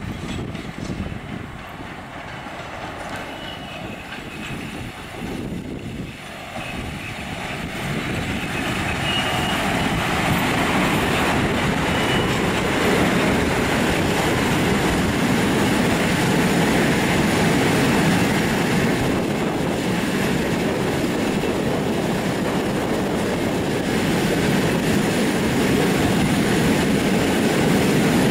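PKP Cargo ET22 electric freight locomotive passing, followed by a long train of cement hopper wagons rolling by. Wheels run on the rails with a clickety-clack. The rumble grows louder over the first ten seconds, then holds steady as the wagons go past.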